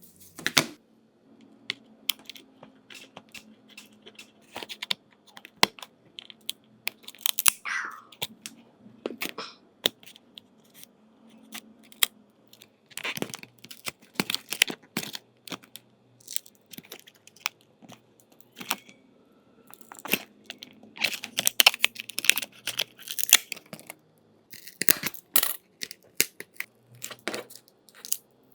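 Irregular clicks, taps and short scrapes of a smartphone being handled and worked on with small tools, coming in clusters.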